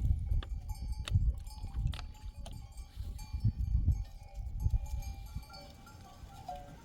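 Flock of sheep and goats with their bells clinking a few times. Low rumbling thuds come and go throughout and are the loudest sound, fading out after about five seconds.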